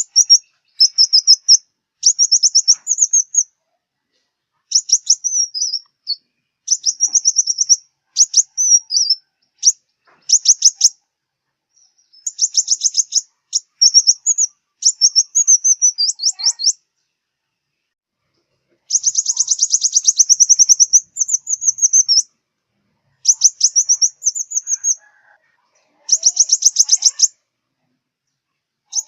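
Sunbird song, the bird sold in southern Vietnam as the 'five-colour sunbird': bursts of rapid, high-pitched trilled notes, each a second or two long, with short pauses between them.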